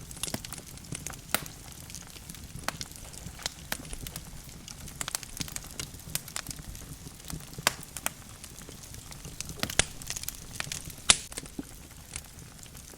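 Logs burning in a fireplace, crackling with irregular sharp pops and snaps over a low steady background noise of the fire. The loudest pop comes about eleven seconds in.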